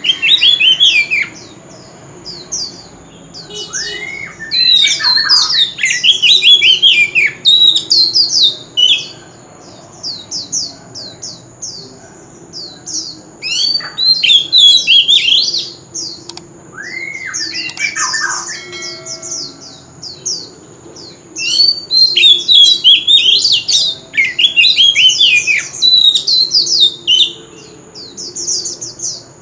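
Oriental magpie-robin singing: loud bursts of rapid, varied whistled phrases, each a few seconds long, with short pauses between them.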